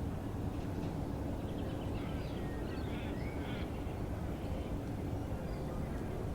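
Wetland birds calling, a run of short chirps and calls between about two and four seconds in, over a steady low background rumble.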